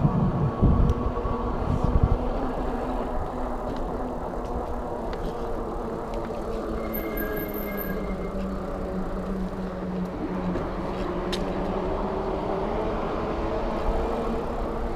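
Steady riding noise with wind rushing over the microphone, gusting hard in the first couple of seconds.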